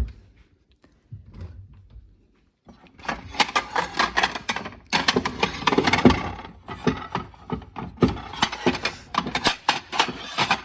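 Food packaging and containers being handled, starting with a single knock. From about three seconds in comes a dense, loud run of crackling and rustling with quick clatters.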